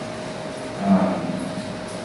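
A person's short, low hummed vocal sound, like a hesitant "mm", about a second in, over a steady room hum with a constant tone.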